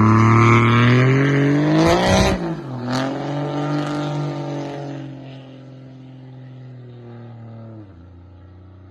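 Pickup truck with a loud aftermarket exhaust accelerating hard, its engine note climbing in pitch. About two seconds in there is a short burst of noise and the pitch drops suddenly. The engine then runs at a steady lower note and fades away.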